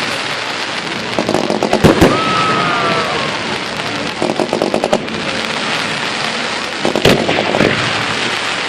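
Fireworks going off: steady crackling and runs of rapid popping, with sharp bangs about two seconds in and again about seven seconds in. A short whistle, falling slightly in pitch, follows the first bang.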